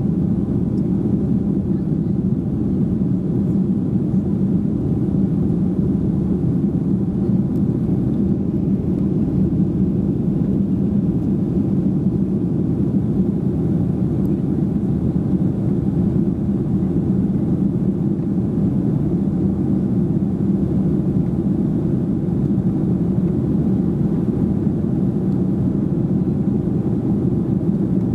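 Steady engine and airflow noise heard inside the cabin of a Boeing 737-800 airliner, with its CFM56-7B turbofans running: a constant low rumble centred around 200 Hz that does not change.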